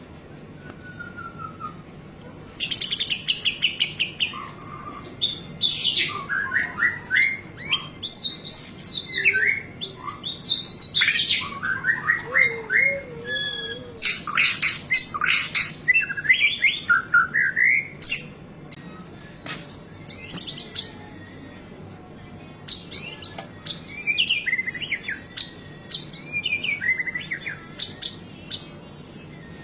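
White-rumped shama (murai batu) singing a long, varied song of quick whistled phrases and rapid chattering runs, packed with mimicked calls of other birds (isian). It pauses for a few seconds about two-thirds through, then resumes.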